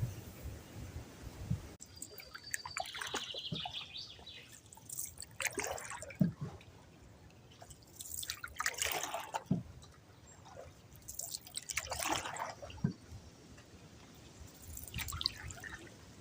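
Water dripping and splashing in irregular bursts, a few seconds apart.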